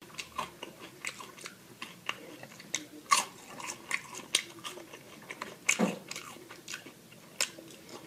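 Close-miked eating: a person biting and chewing food, with irregular crisp clicks and crunches and a few louder bites.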